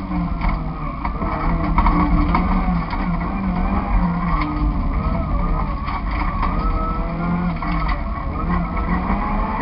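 Nissan Micra 1.3's four-cylinder petrol engine heard from inside the stripped cabin while the car is driven hard, the revs rising and falling repeatedly. Frequent short clicks and rattles run through it.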